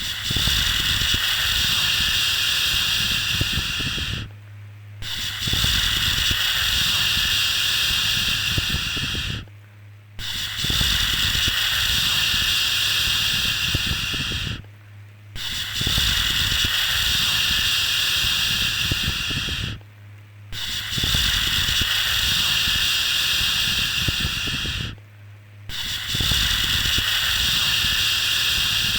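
A shushing 'shhh' sound for soothing a baby, repeated in long strokes of about four seconds each, with a short pause of under a second between them. A faint steady low hum runs underneath.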